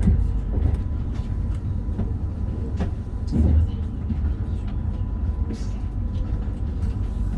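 Meitetsu Panorama Super limited express train running, heard from inside the car: a steady low rumble with scattered short clicks and knocks from the wheels and running gear, and a louder bump about three and a half seconds in.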